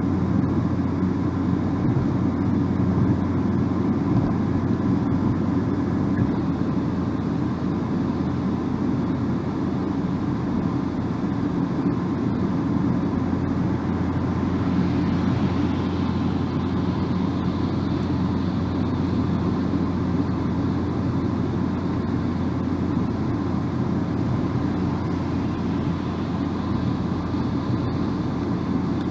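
Car driving at steady speed on a bypass road: continuous tyre and road noise over a low engine hum. A higher hiss joins about halfway through.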